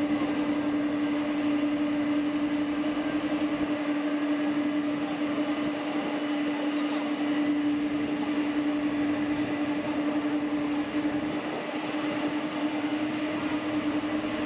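Jet airliner engines running steadily, a constant whine over a broad rushing noise, with no rise or fall in pitch.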